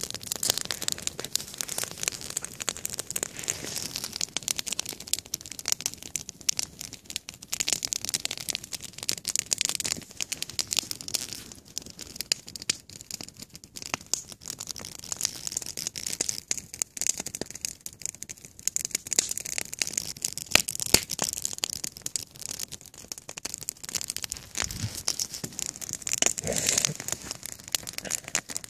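Wood fire crackling, with many sharp, irregular snaps and pops over a steady hiss.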